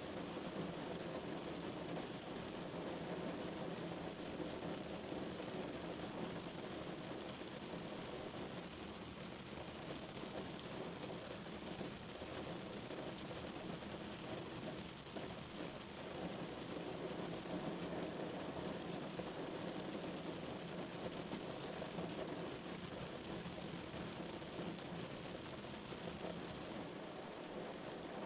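Steady rain falling on a car, a dense, even patter with no let-up.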